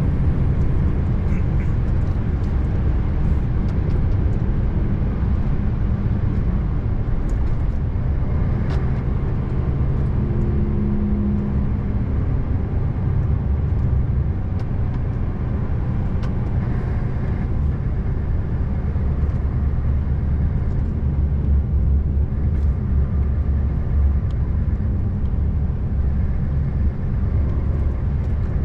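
Scania R590 V8 truck engine running steadily while the truck drives along, a continuous low drone with road noise.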